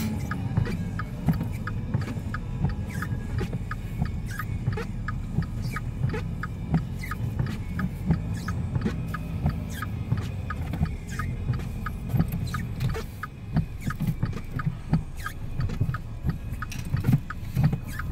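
Car engine running, heard from inside the cabin, its pitch rising and falling, with a steady ticking about three times a second like a turn-signal or hazard-light relay and scattered sharp clicks.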